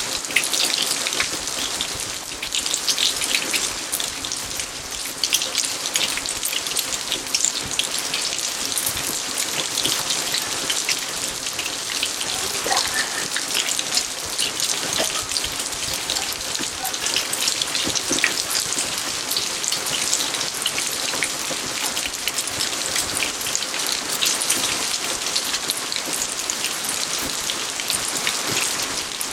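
Steady rain falling, a dense, even hiss made of many small drop impacts.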